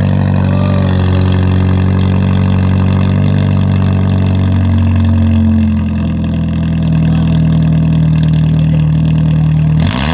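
2003 Oldsmobile Alero engine running loud and steady on headers only, with no catalytic converter or muffler; the note shifts slightly about six seconds in. A sudden sharp sound near the end.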